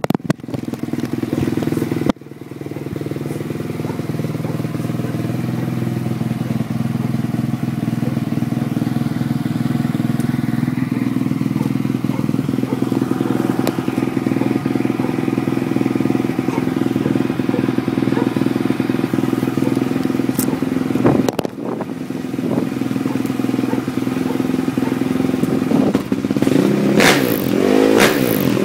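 Single-cylinder four-stroke engine of a 2006 KTM SMR450 supermoto, breathing through an Akrapovic exhaust, running at a steady idle. Near the end it is revved up and down a couple of times.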